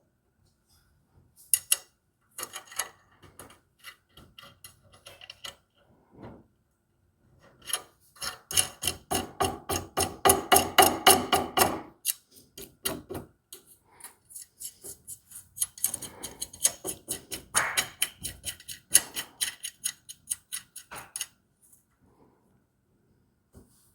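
Long runs of quick, light metal clicks, about six a second, stopping and starting several times: clamp hardware being fitted and worked on a pie-cut jig.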